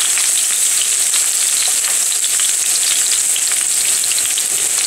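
Sliced onions and green chillies sizzling in hot oil in a frying pan: a steady high hiss with many small crackles.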